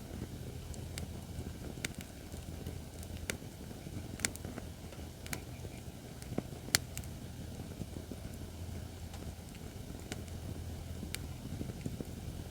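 Acacia firewood burning in a fire pit, crackling with scattered sharp pops over a low steady rumble of the flames; the loudest pop comes a little past halfway.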